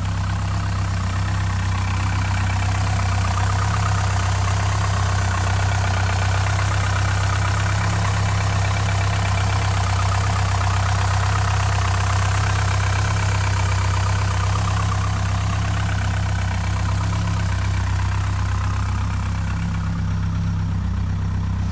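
1987 Porsche 944 Turbo's turbocharged inline-four idling steadily after a cold start, an idle the owner says is not yet right and needs an idle valve.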